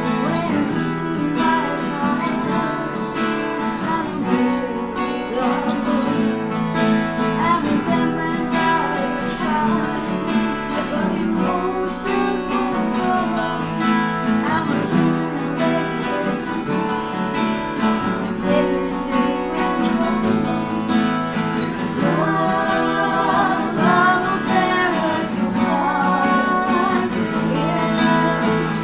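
Acoustic guitar music, strummed chords with a wavering melody line above them that grows stronger in the last third.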